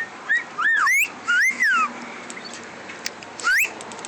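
Pet parrot whistling: a quick run of clear whistled notes that swoop up and down in pitch, then a single rising whistle near the end.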